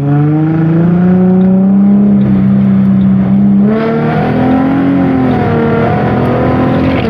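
A vehicle engine running loud and steady, its pitch rising slowly, then shifting to a wavering pitch about four seconds in.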